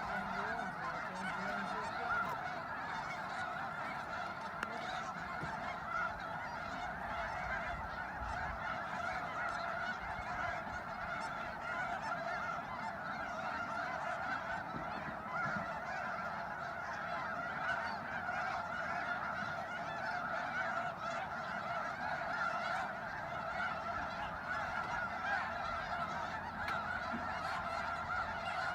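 A large flock of waterfowl honking continuously, with many calls overlapping into a dense, steady chorus.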